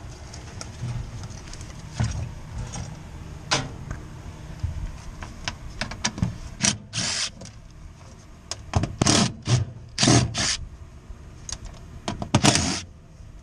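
Tool work on an HVAC unit's metal casing: several short harsh scraping and clattering noises over a steady low hum, the loudest around nine and ten seconds in.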